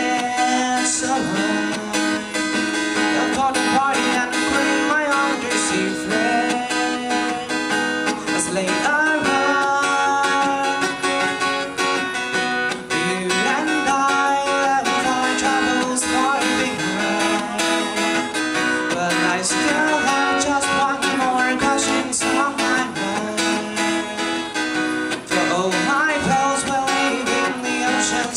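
Acoustic guitar playing a strummed and picked instrumental passage of a pop ballad, steady and continuous.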